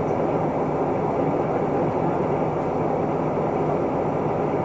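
Isuzu Erga Mio city bus driving, its diesel engine and road noise heard steadily from inside the passenger cabin.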